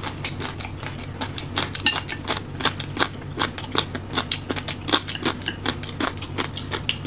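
A person chewing with his mouth open, smacking his lips loudly in quick, irregular wet smacks, several a second.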